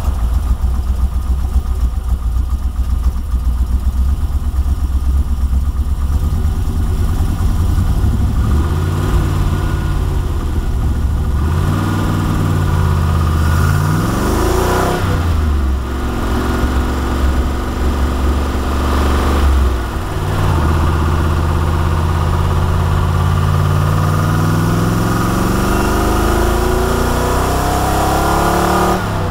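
TVR V8 engine in a Lotus Esprit, idling steadily, then revved up and down a few times, and finally climbing slowly and steadily in revs.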